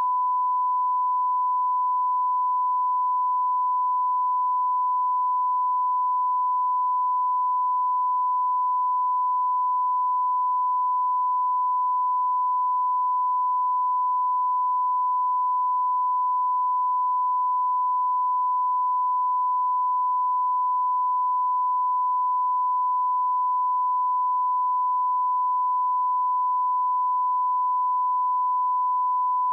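Steady 1 kHz sine-wave reference tone, the line-up tone of bars and tone at the head of a video, held unbroken at one pitch and level.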